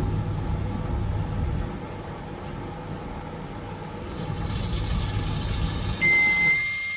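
Microwave oven running with a steady low hum while an apple heats inside. About four seconds in a hiss builds up over it; about six seconds in a steady high beep starts and the hum stops as the oven shuts off.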